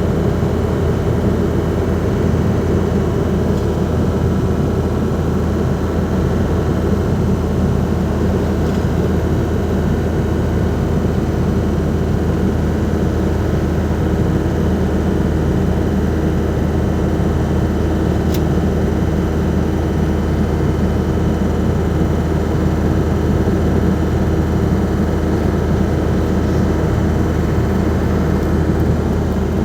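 Ford Transit Mk5's 2.5-litre diesel 'banana' engine running steadily while the van drives along, with road noise, the level holding even throughout.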